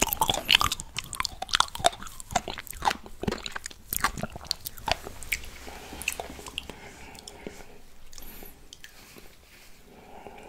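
Close-miked chewing of a red grape: many crisp crunching clicks, dense in the first half and thinning out and quieter toward the end.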